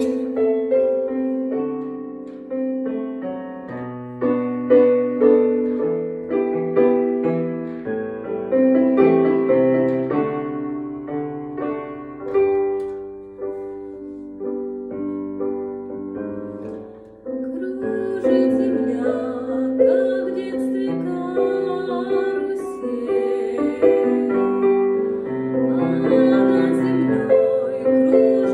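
Instrumental piano music: held chords under a melody line. About two-thirds of the way in the playing grows fuller and brighter.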